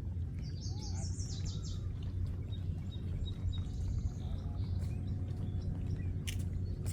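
Small birds chirping: a quick run of high chirps about half a second in, then fainter high notes, over a steady low rumble.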